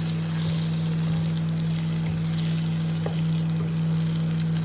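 Onions frying in oil in a pan, a steady sizzle, over the constant low hum of an induction cooktop.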